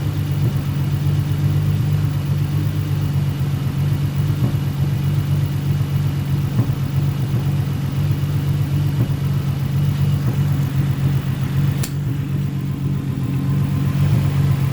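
Nissan 350Z's 3.5-litre V6 idling evenly: the misfire seems gone, its cause having been a bad spark plug. A single sharp click near the end.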